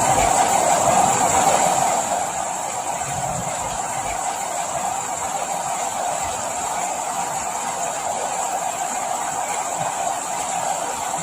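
Steady rain falling as an even, unbroken hiss, a little louder for the first two seconds and then constant.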